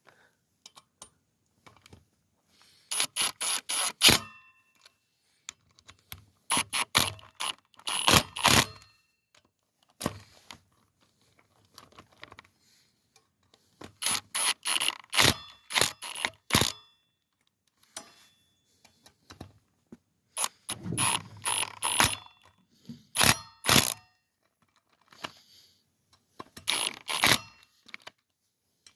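Socket ratchet clicking in short bursts as bolts on a dirt bike's wheel hub are run down and tightened, about six bursts of quick clicks with pauses between.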